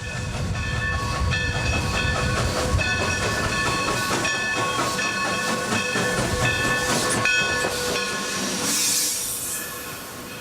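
Steam train running: a steady low rumble with shrill, stacked high tones that start and stop every second or so, and a burst of steam hiss near the end, the whole sound fading out at the close.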